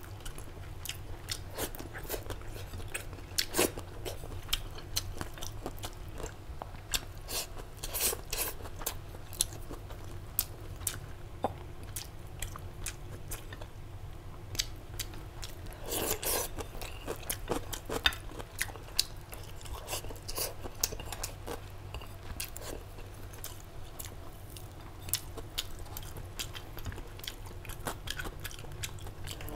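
A person chewing and biting food with irregular crunchy clicks, over a low steady hum.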